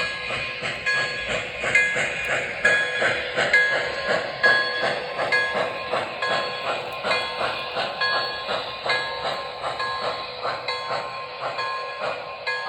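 Model locomotive's onboard sound system: a fast, even chuffing with a bell ringing about once a second.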